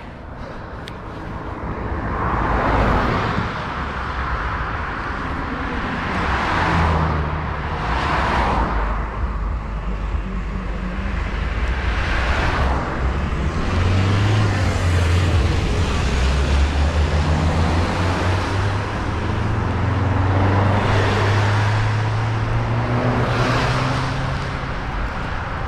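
Road traffic going by on a busy road: several cars pass one after another, each a rising and falling rush of tyre and engine noise, over a low engine drone that grows stronger through the second half.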